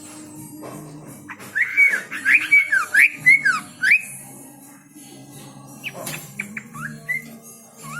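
A songbird singing bursts of loud, clear whistled notes that swoop up and down. A long phrase comes about a second in, and a shorter one about six seconds in.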